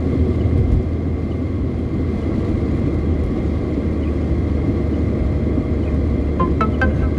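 Steady road and engine rumble of a car driving on the highway, heard from inside the car. A few short musical notes come in near the end.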